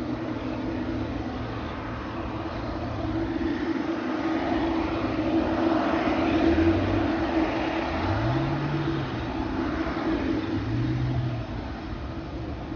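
Boeing 777F jet engines running at low power with a steady hum, the engine noise swelling about halfway through and then easing off.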